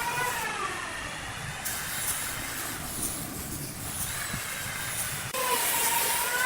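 A power tool's motor whining steadily over a hiss. The sound jumps back louder, abruptly, about five seconds in.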